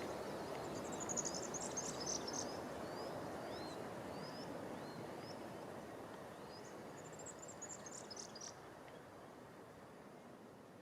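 Fairywren song: two high, rapid reeling trills, one about a second in and another around seven seconds in, with short thin chirps between them, over a steady background hiss that fades toward the end.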